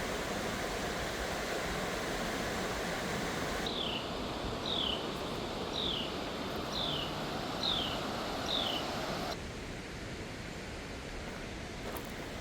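Steady rushing outdoor noise, with a bird whistling six short falling notes, a little under one a second, from about four seconds in to about nine.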